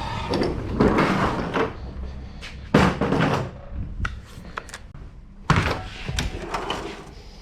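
Knocks and clatter of handling, with two sharp, loud thuds, one about three seconds in and another about five and a half seconds in.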